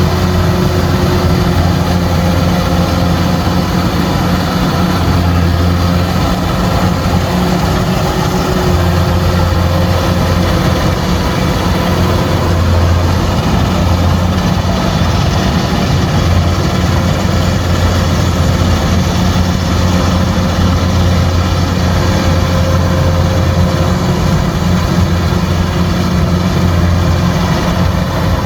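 Combine harvester's engine running steadily at a constant speed: a low, even drone with no change in pitch.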